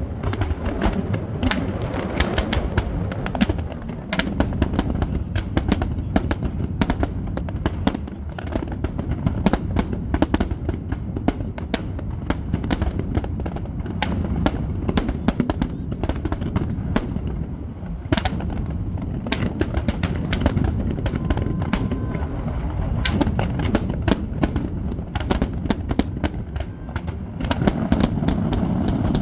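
Fireworks going off: a rapid, continuous crackle of many sharp small bangs over a steady low background.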